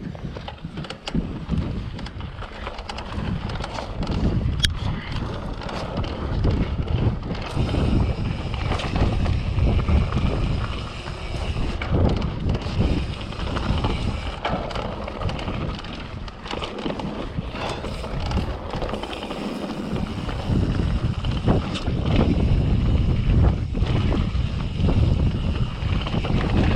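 Wind buffeting the microphone over the rattle, knocks and tyre noise of a 2020 Transition Patrol full-suspension mountain bike being ridden along a muddy trail.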